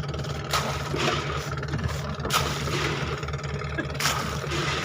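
Motorboat engine running steadily while towing a banana boat, with repeated bursts of rushing water noise over the drone.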